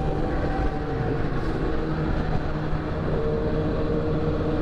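Motorcycle engine running at a steady cruising speed under way, over a constant rush of wind and road noise.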